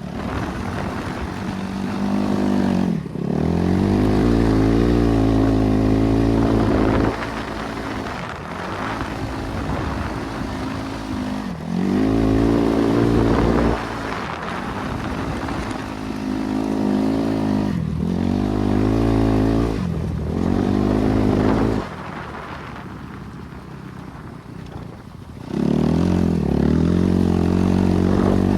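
BRZ MX8 dirt bike's single-cylinder NB300 four-stroke engine running and revving, its pitch repeatedly climbing and dropping back, with several sudden jumps in loudness.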